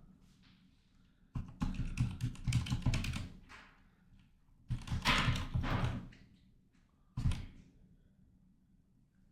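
Typing on a computer keyboard in two quick flurries of keystrokes, then a single key tap near the end.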